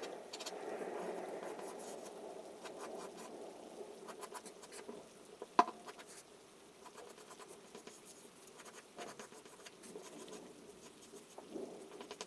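Charcoal scratching across drawing paper in rough shading strokes, strongest in the first few seconds, with scattered small ticks and one sharp tap about five and a half seconds in.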